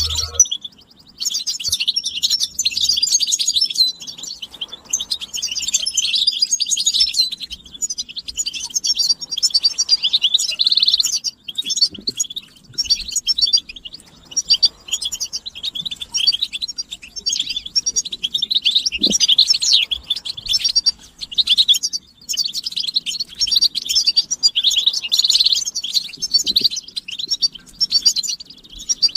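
European goldfinches twittering and singing: a dense stream of rapid high chirps and trills with only short breaks. These are the excited group calls used to stimulate a silent male goldfinch to sing.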